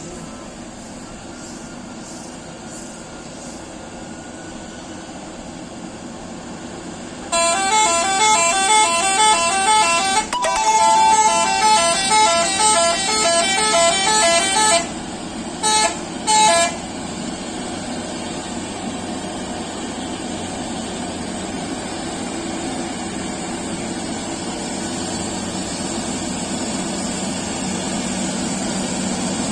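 Truck running on the road with a steady drone, then a loud multi-tone musical horn plays a stepping tune for about seven seconds, followed by two short toots. The drone rises slightly near the end.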